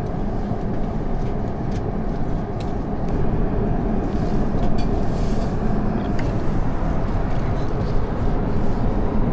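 Steady cabin roar of an Airbus A350-900 airliner in cruise, with a few faint light clicks and taps on top.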